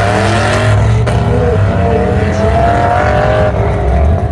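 Modified car's engine accelerating hard, its pitch climbing steadily, dipping briefly about a second in before climbing again.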